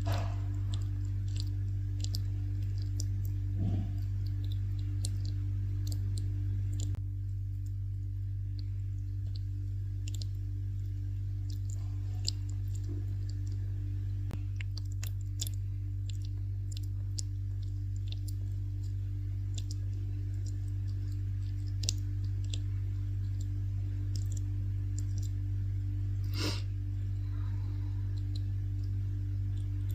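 A fruit-eating bat chewing on a persimmon: many small, irregular clicks over a steady low hum, with a louder click at the start and another near the end.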